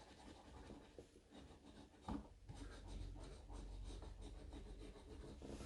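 Faint scratching of a lottery scratch-off ticket: a run of short rubbing strokes from about two seconds in.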